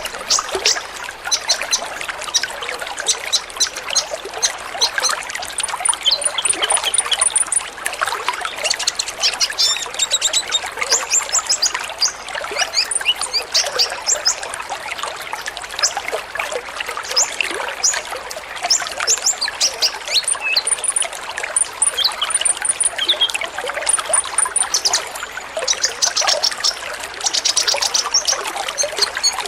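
A flock of kolibri ninja sunbirds giving many short, high chirps and brief trills, over the steady sound of trickling water.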